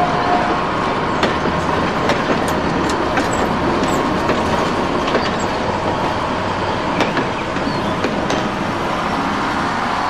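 A train running along the rails: a steady rolling noise with scattered clicks from the wheels and track.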